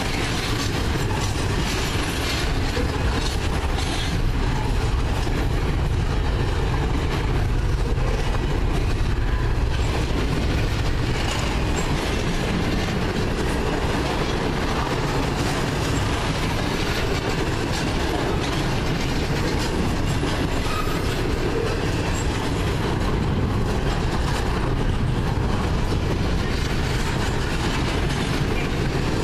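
Double-stack intermodal train's container-laden well cars rolling past close by: a steady, continuous noise of steel wheels running on the rails.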